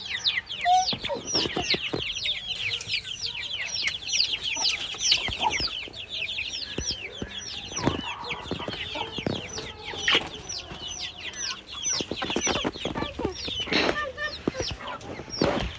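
A flock of chickens calling together: many short, high peeping chirps overlapping continuously, with some clucking.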